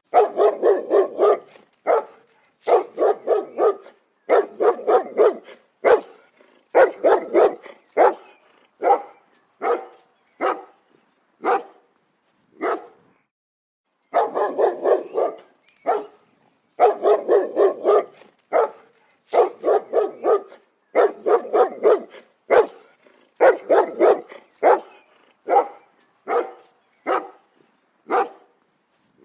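Big dogs barking loudly in rapid volleys of several barks each, with short pauses between volleys.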